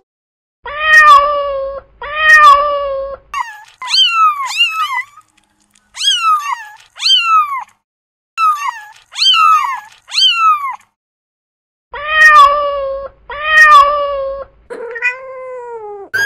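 Domestic cat meowing again and again. Two long, level meows open and close the sequence, and in the middle comes a run of shorter, higher meows that slide down in pitch, mostly in pairs.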